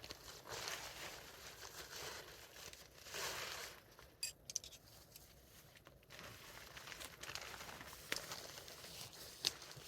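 Nylon fabric rustling and crinkling as it is handled, in several swishing stretches, with a few sharp clicks in between.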